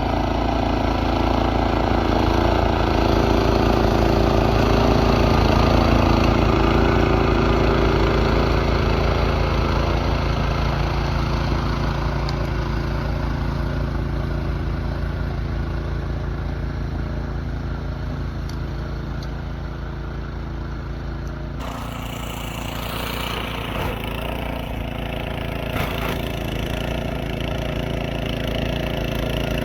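Small gasoline engine running steadily, growing louder over the first few seconds and then slowly fading; about 22 seconds in the sound changes abruptly, and an engine keeps running after it.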